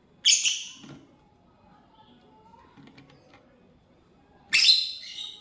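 Lovebird giving two loud, high-pitched calls, one just after the start and another about four and a half seconds in, with quiet between.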